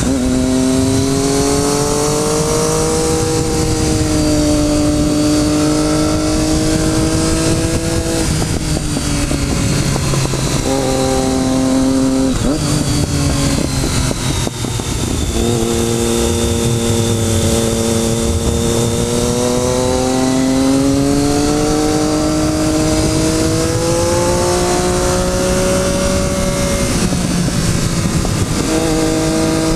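Motorcycle engine running hard under load, its pitch climbing slowly through each gear, then dropping sharply at the shifts and when the throttle is closed, with a short lull about halfway. Heavy wind rush runs underneath.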